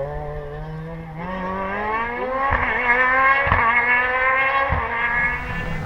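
Rally car engine accelerating hard, revs rising from about a second in and then held high, with three brief sharp breaks in the sound, easing off near the end.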